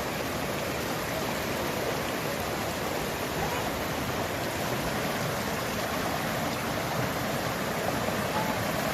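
Waterfall water rushing and splashing over rocks: a steady, even hiss that neither rises nor falls.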